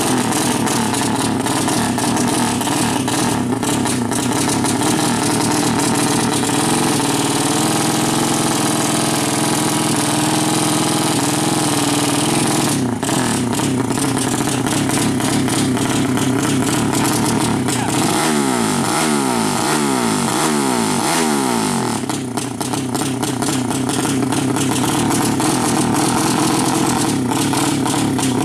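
A 200cc motorcycle engine running steadily, with a run of quick throttle blips, the revs rising and dropping several times, about two-thirds of the way in.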